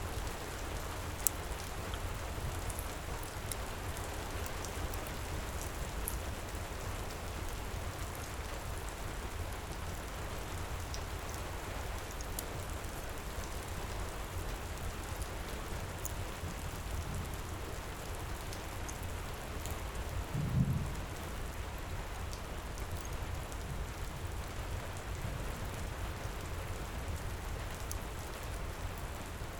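Steady heavy rain, with scattered sharp crackles from a wood fire; one crackle about a second in is louder. Around two-thirds of the way through comes a short, low rumble.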